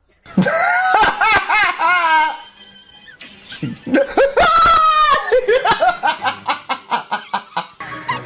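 Loud, high-pitched laughter: a first burst, a short lull about two seconds in, then a longer run of quick, repeated ha-ha pulses.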